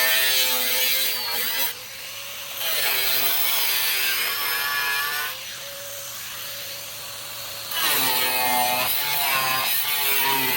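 Power tool cutting, running in three stretches with short pauses between, its pitch wavering under load.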